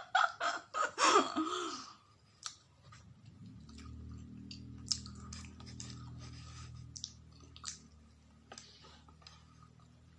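Wet clicks and smacks of a person eating cake face-first without hands, with short vocal sounds in the first two seconds and a low steady hum in the middle.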